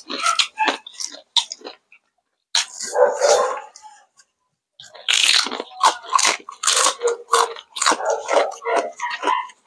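Close-up crunching and chewing of crispy deep-fried chicken skin, in quick irregular bites with two short pauses, then a dense run of crunches from about five seconds in.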